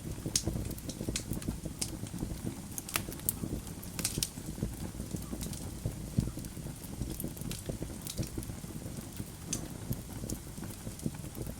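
Wood fire crackling in a fireplace: burning logs give irregular sharp pops and snaps over a steady low rumble of flame.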